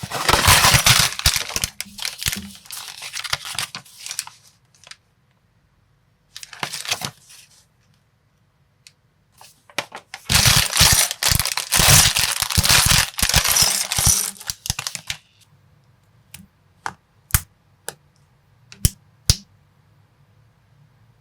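Small plastic building bricks and minifigure parts clattering and clicking together in two long rattling spells, followed by a few single sharp clicks near the end.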